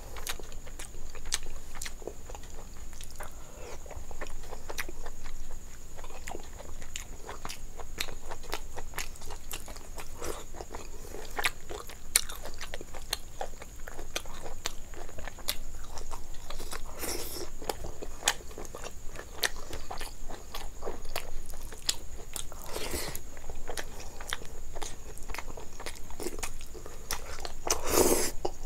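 Close-miked eating of rice and chicken gizzard curry by hand: continual wet chewing and lip smacks with many small clicks. A few louder mouth noises stand out, the loudest near the end.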